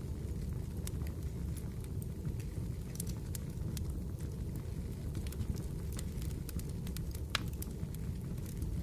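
Fire burning in a fireplace: a steady low rumble with scattered sharp crackles and pops, one louder pop a little after the middle.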